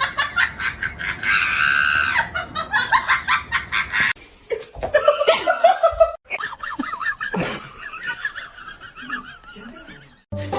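People laughing, in quick repeated bursts, over several short clips with abrupt cuts between them.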